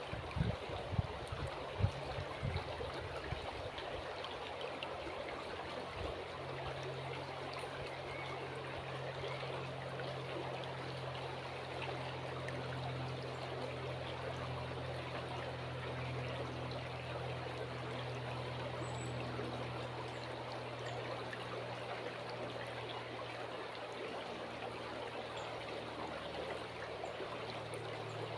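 River water flowing and trickling steadily. A low steady hum sits underneath from about six seconds in, and there are a few low thumps in the first seconds.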